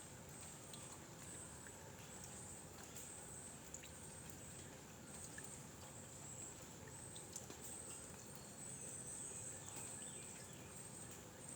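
Faint outdoor ambience: a high, steady insect-like buzz that pulses on and off, over a low hiss, with a few small ticks.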